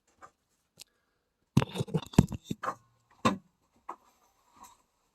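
Boards being handled against a table saw's fence and top: a quick run of wooden knocks and clatter about a second and a half in, then a couple more knocks a second later, with the saw not running.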